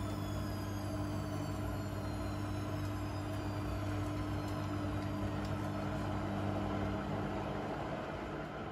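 Blomberg fuzzyDigitronic Granat 3200 washing machine running, its motor whine gliding slowly down in pitch over a steady hum. The hum briefly drops out near the end, then picks up again.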